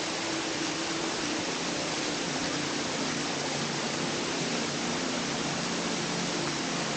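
Waterfall cascading down a brook: a steady, even rush of falling water.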